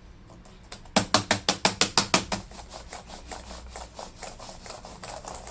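Laptop keyboard keys pressed rapidly over and over, a fast run of about eight clicks a second that is loudest for just over a second and then goes on more faintly. The keys are being worked to free ones sticking after liquid damage.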